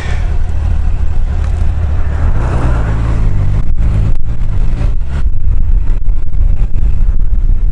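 Heavy wind rumble on a helmet microphone mounted behind the chin-bar air vent, with a Honda CBR1000F's inline-four engine pulling away underneath; the engine note comes through more plainly in the middle, with a couple of brief dips around four seconds in.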